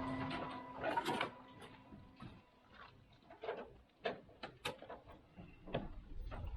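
Scattered light knocks and clicks, a dozen or so irregular taps and clunks with quiet gaps between them, after the tail of background music fades in the first second.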